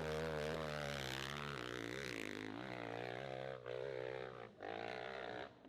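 Hill-climb motorcycle engine running with a steady low drone and a wavering pitch above it, dipping briefly twice in the second half.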